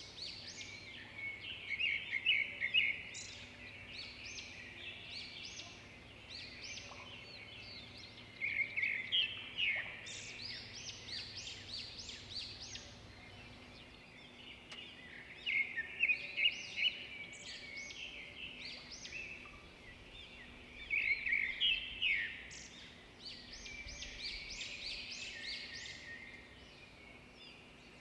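Birds chirping and singing in quick trilled phrases, coming in bursts every few seconds.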